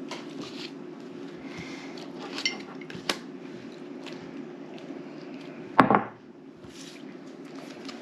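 Small clicks and clatter of things handled on a table, with one louder knock about six seconds in, over a steady low hum.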